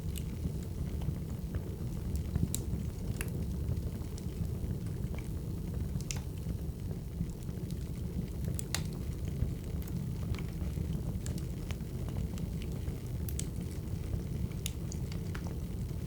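Wood fire crackling: a steady low noise of burning logs with sharp pops and snaps scattered through it, about one a second.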